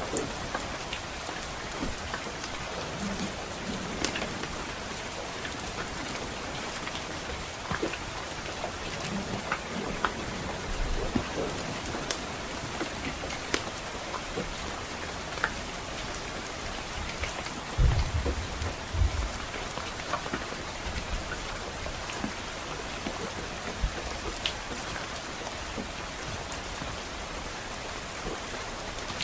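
Steady rain falling, with scattered sharp crackles and pops from a wood fire. A brief low rumble of distant thunder comes about two-thirds of the way through.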